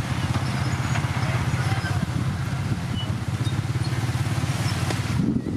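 Heavy diesel earthmoving machinery running steadily, a low, even engine sound with a change in the surrounding noise near the end.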